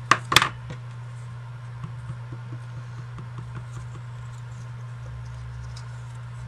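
Two sharp clicks, then light, irregular dabbing and scuffing of an ink pad along the edges of a paper tab.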